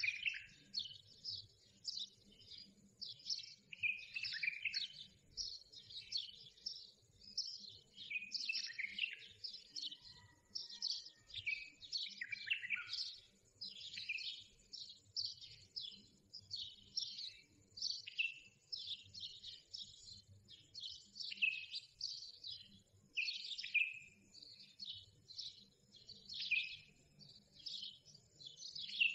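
Birds chirping continuously: many short, quick, downward-sweeping high calls, several a second.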